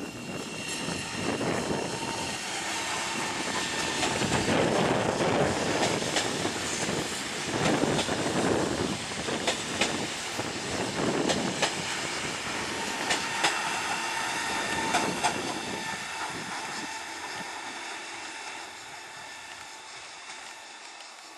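Trenitalia ETR 526 "Jazz" electric multiple unit passing at speed: steady rolling rumble with a faint whine and scattered sharp wheel clicks over the rail joints. It swells as the train comes by and fades as it draws away over the last few seconds.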